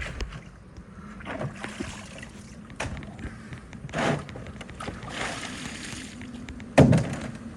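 Live crawfish being rinsed with a water spray, in several short hissing bursts, with scattered knocks and a loud thump near the end.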